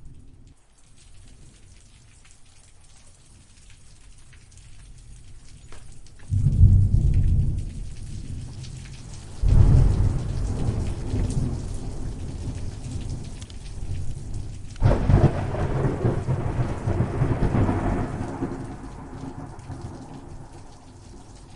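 Rain falling steadily with rolling thunder. Three heavy, deep thunder rumbles break in suddenly, about six, ten and fifteen seconds in, each trailing off, and the last rolls on for a few seconds before fading back under the rain.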